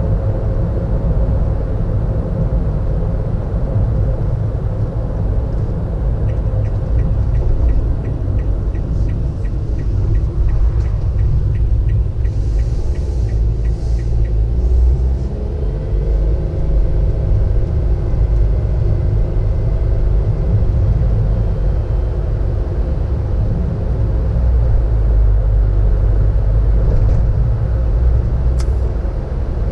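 Car road noise heard from inside the cabin: a steady low rumble of engine and tyres while driving, with a run of rapid, even ticking for several seconds about a fifth of the way in.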